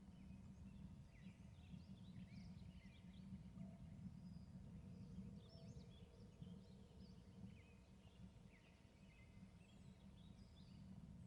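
Faint outdoor ambience: scattered short bird chirps and calls over a steady low rumble.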